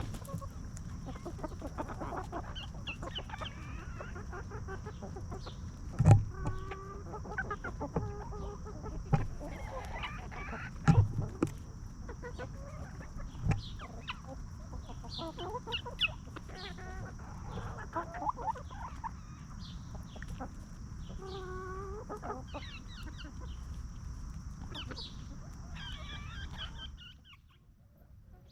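Several free-range hens clucking, with short overlapping calls, plus a few sharp knocks. The sound drops away abruptly near the end.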